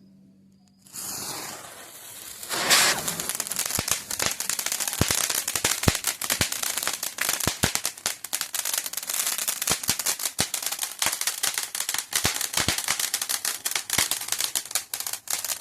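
Firework going off: a hiss starts about a second in, a loud bang follows shortly after, then a long run of rapid firecracker crackling with sharper pops scattered through it.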